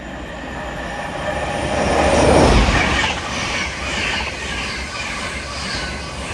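LNER InterCity 225 set (electric Class 91 locomotive, Mk4 coaches and Driving Van Trailer 82223) passing through the station at speed: a rush of wheels on rail that builds to its loudest about two and a half seconds in and stays loud.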